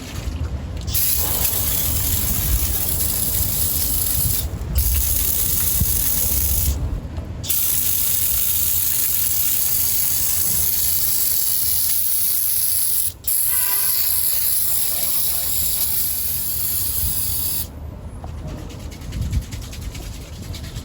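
Aerosol can of degreaser spraying a steady hiss in four long bursts, with short breaks between them, stopping a few seconds before the end.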